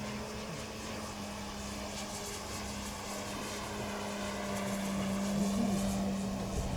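Seagull Models T-34 Mentor radio-controlled model airplane flying, its motor and propeller droning steadily as it passes, growing somewhat louder in the second half.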